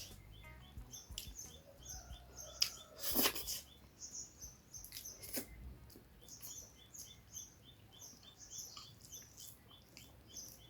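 Quiet eating sounds: chewing, with a few sharp clicks and a louder crunch about three seconds in. Behind it a high chirp repeats steadily, two or three times a second.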